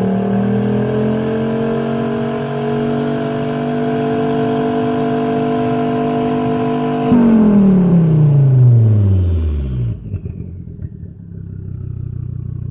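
Used Volvo car engine held at high, steady revs. About seven seconds in the throttle is released, and the revs fall away over about three seconds to a steady idle. A thin high whine sits above the engine note and fades out as the revs drop.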